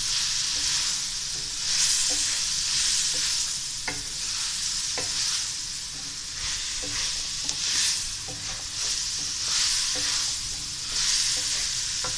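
Okra frying in onion-tomato masala in a metal pan, sizzling in waves as a wooden spatula stirs it, with a few sharp clicks of the spatula against the pan.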